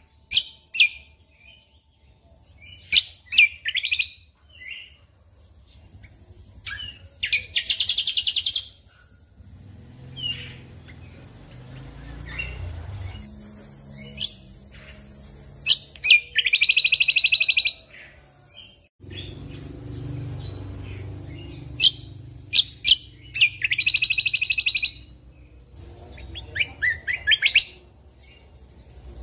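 Cucak kombo singing in bursts: short sharp chirps and calls with three loud, buzzy trilled phrases of about a second each, one near the start, one in the middle and one later on. A low steady rumble sits under the song for a stretch in the middle.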